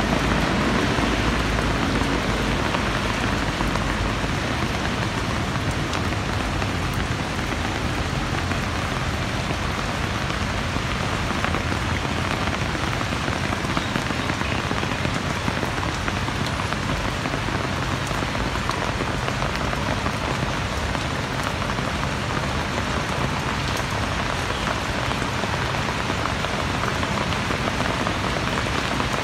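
Steady rain falling: an even hiss with the odd sharper drop tick.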